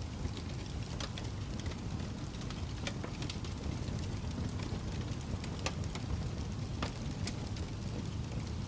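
Wood fire crackling, with scattered sharp pops at irregular intervals, over a steady low rush of snowstorm wind.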